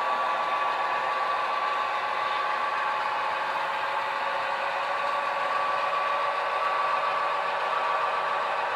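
Model train running on the layout: the steady whine of the locomotive's small electric motor holding one pitch, with the rolling rumble of wheels on track.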